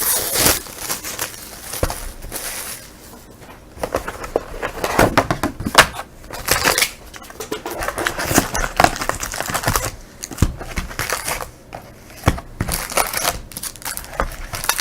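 Sealed box of trading-card packs being unwrapped and opened by hand: irregular crinkling and tearing of plastic wrap and cardboard, with many small crackles and snaps.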